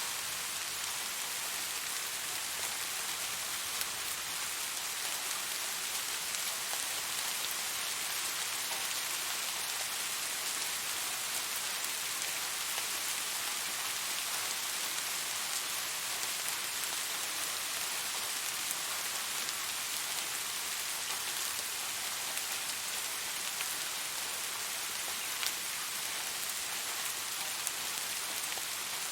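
Steady rain falling: an even hiss of rain with many small drop ticks scattered through it.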